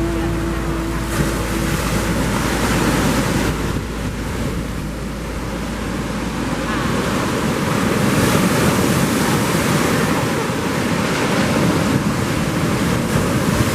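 Lake Michigan surf: waves breaking on the shore in a loud, steady rush, with wind on the microphone.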